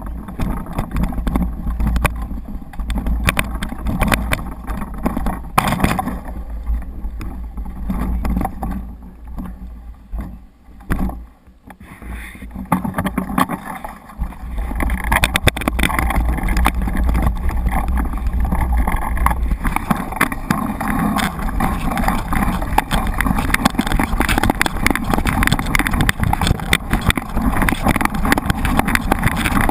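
Wind buffeting the camera microphone with a heavy gusty rumble, over a steady rushing noise; the rumble drops briefly about eleven seconds in and stops about twenty seconds in, leaving an even rush.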